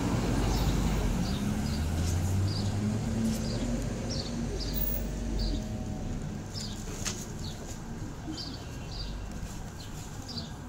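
A bird chirping over and over, about two short high chirps a second, over a low engine hum that fades out about halfway through.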